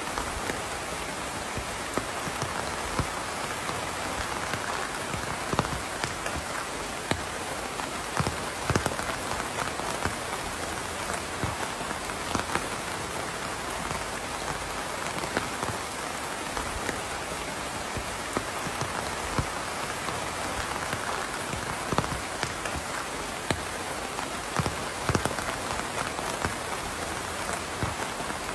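Steady rain falling on a surface, with scattered louder individual drops ticking through the even hiss.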